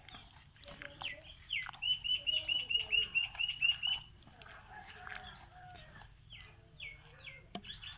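A bird calling in a quick run of short, high, falling chirps, about six a second, for about two seconds, followed by a few scattered single chirps. A sharp click comes near the end.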